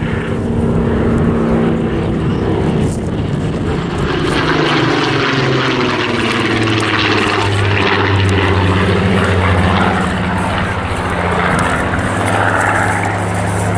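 Spitfire's Rolls-Royce V12 piston engine running loud in a flypast, its propeller note falling in pitch as the aircraft passes, then holding a steady drone.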